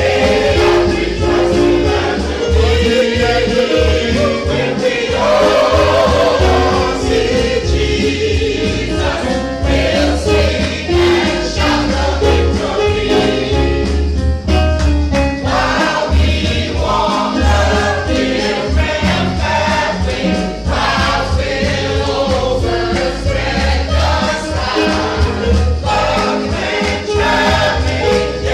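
Gospel music: a choir singing over a band, with a steady pulsing bass beat.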